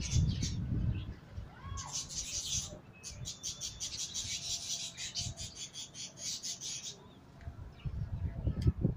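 Birds chirping in a quick, even run of high chirps for about five seconds in the middle, with low rumbling sounds near the start and end.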